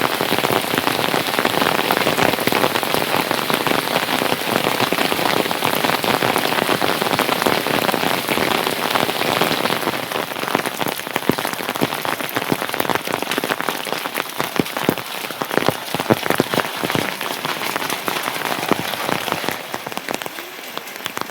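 Steady heavy rain falling, with many separate drops tapping; it eases a little about halfway through and again near the end.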